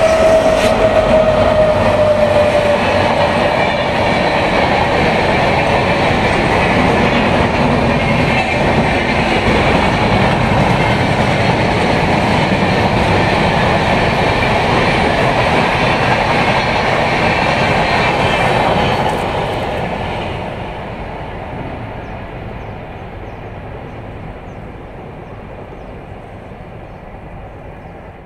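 Indian Railways passenger train coaches rushing past at high speed, a steady loud rush with wheel clatter on the rails, fading away over the last several seconds as the train recedes. A single tone dips slightly in pitch and dies away within the first few seconds.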